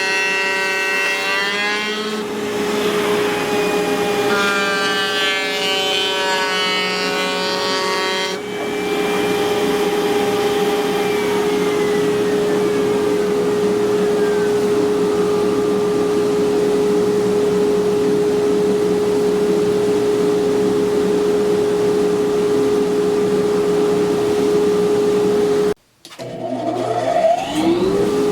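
CNC router spindle running at a steady high whine while the bit cuts wood, with extra tones that rise and fall as the cut loads it during the first eight seconds or so. Near the end the sound cuts out briefly, then the whine rises back up to speed.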